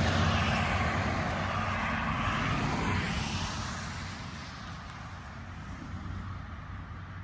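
Thunder from a nearby supercell rumbling and fading away over about five seconds, leaving a faint low rumble.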